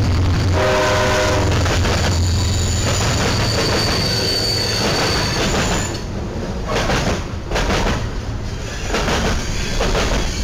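CSX diesel freight locomotive passing close by with a heavy engine rumble and a short horn blast about half a second in, then a thin, high wheel squeal. In the second half, the freight cars' wheels clatter with repeated bangs over the track joints and the crossing.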